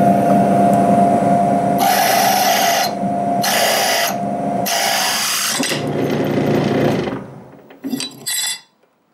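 Electric drill running a hole saw, boring through the workpiece in three bursts of harsh cutting over the steady motor hum. The drill then winds down and stops, followed by a couple of short knocks near the end.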